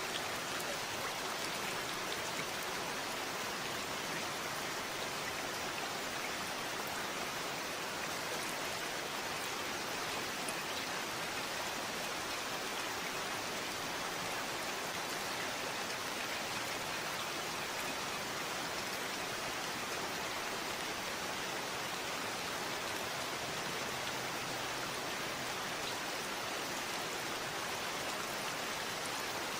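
Steady rain falling, an even hiss of many drops with faint scattered patters and no change in intensity.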